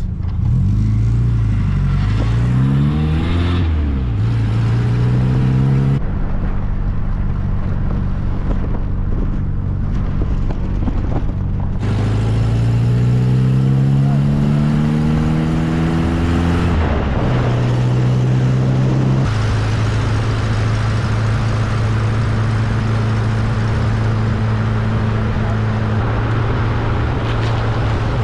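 1275cc MG Midget's four-cylinder engine pulling away and accelerating through the gears, its pitch climbing and dropping at each change, then running at a steady cruise, with wind noise in the open car.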